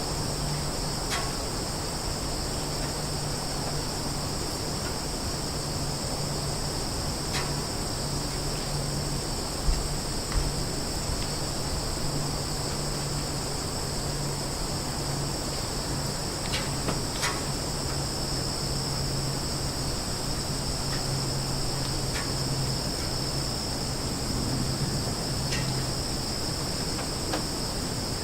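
Summer forest ambience dominated by a steady, high-pitched chorus of insects, with a low steady drone beneath it and a few brief chirps or clicks scattered through.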